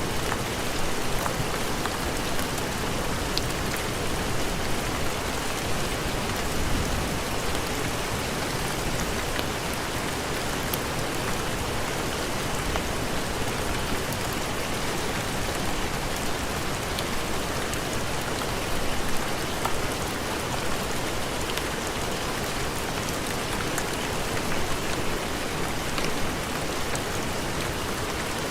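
Steady heavy rain: a dense, even hiss with faint scattered ticks and small swells in loudness.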